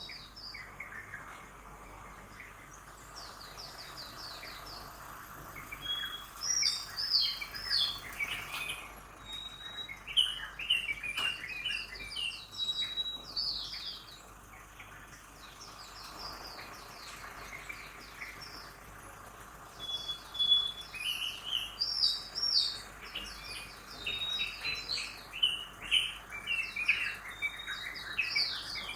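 Several songbirds chirping and trilling in rapid bursts, with lulls of a few seconds between, over a faint steady hum of city traffic.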